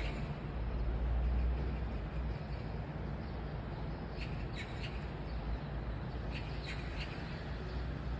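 A bird giving short, harsh calls, a few times in quick pairs, over a steady low outdoor rumble of wind and distant traffic that swells briefly about a second in.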